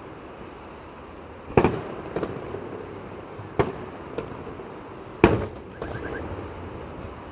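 Aerial fireworks bursting: three sharp booms about two seconds apart, the last the loudest, each followed by smaller pops and a fading echo.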